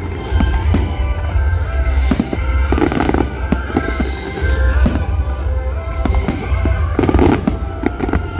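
Aerial fireworks display: a rapid, continuous run of shell bursts and sharp bangs over a low rumble, with heavier booms about three seconds and seven seconds in.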